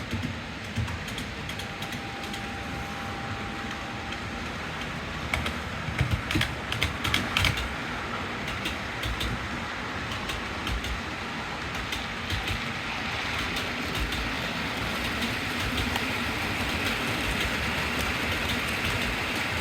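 OO gauge model train running along the track: a steady hiss that slowly grows louder, with a quick run of clicks about six to seven seconds in, like wheels over rail joints.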